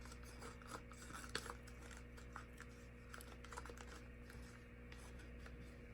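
Faint scattered small clicks and taps of handling over a low steady hum, with no speech.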